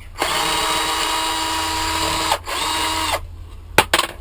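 Electric screwdriver motor running in two bursts, a steady whine of about two seconds and then a shorter one, followed by two sharp clicks near the end.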